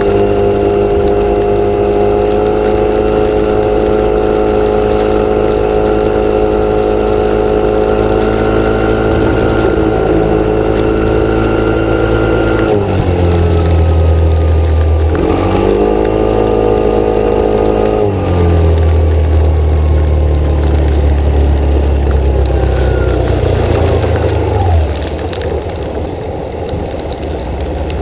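An engine running steadily. Its pitch drops about halfway through, comes back up briefly, then drops again. Near the end the sound falls away to a quieter level.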